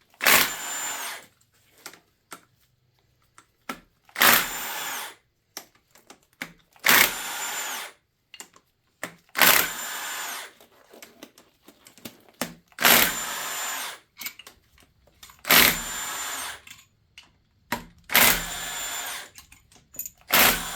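Handheld power tool, drill-like, run in short bursts eight times, each about a second long with a sharp start and a steady high whine.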